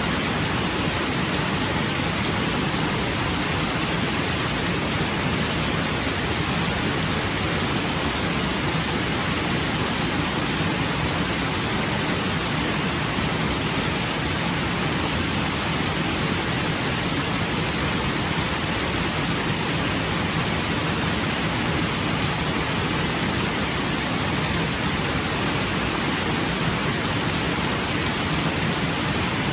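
Steady rain falling, an even hiss that holds at the same level throughout without pauses or distinct drops.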